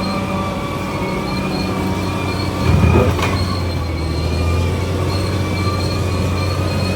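Crawler bulldozer working, its diesel engine and steel tracks running steadily with thin high-pitched tones above the low drone. The sound gets louder for a moment about three seconds in.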